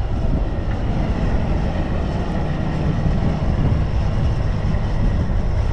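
Strong wind buffeting the camera microphone despite its wind guard: a loud, steady, gusting low rumble.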